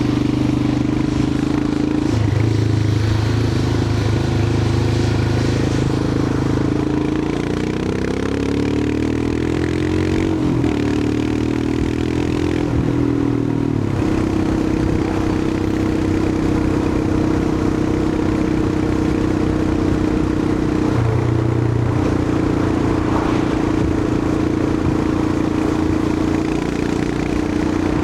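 Royal Enfield Himalayan 411's single-cylinder engine running under way, with wind and road noise. The engine note rises and falls several times in the first half, briefly shifts again later, and otherwise holds steady at cruising pace.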